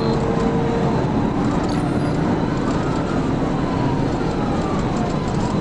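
Police cruiser siren wailing, its pitch sliding slowly down and up, over loud steady road and engine noise from the pursuing patrol car.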